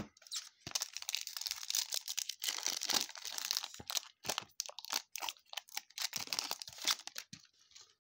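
A plastic-foil trading-card pack wrapper being torn open and crumpled by hand: a dense, irregular crinkling and crackling that thins out near the end.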